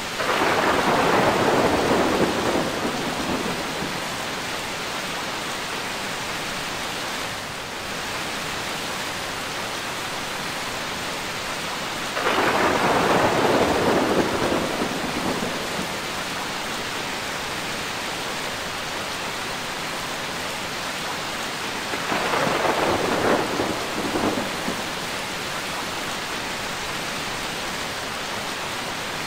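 Steady rain with three rolls of thunder: one right at the start and lasting about four seconds, one about twelve seconds in, and a shorter one about twenty-two seconds in.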